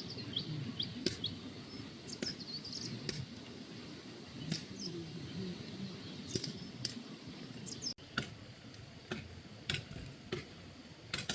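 Small birds chirping in short, quick falling calls, over a scatter of sharp clicks and taps that come irregularly about once a second.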